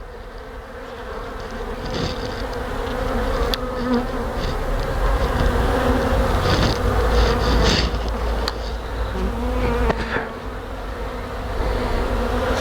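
A mass of honey bees buzzing around an exposed hive comb: a steady, dense hum. A heavy low rumble swells through the middle and eases off before the end.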